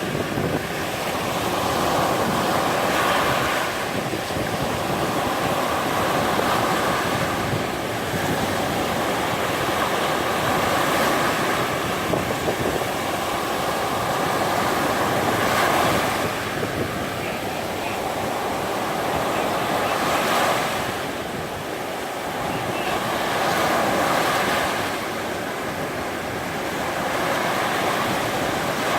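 Black Sea surf breaking and washing up on a sandy beach, swelling and easing every few seconds, with wind on the microphone.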